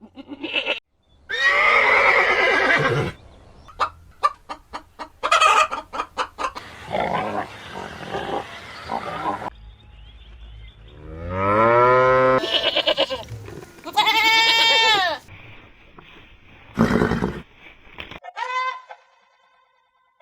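A string of farm animal calls, one after another with sudden cuts between them: a loud call, a run of quick clicking calls, then several long pitched calls that rise and fall.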